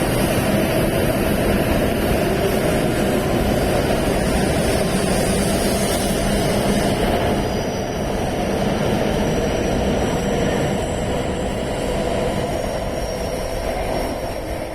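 E7/W7 series Shinkansen train moving at the platform: a loud, steady rush of running noise over a low hum, easing slightly in the second half.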